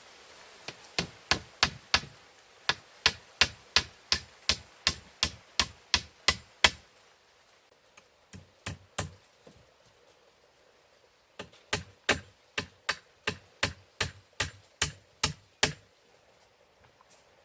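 Hand tool striking wood in quick, even blows, about three a second. The blows come in two long runs, with a short pause and a couple of single strikes in between.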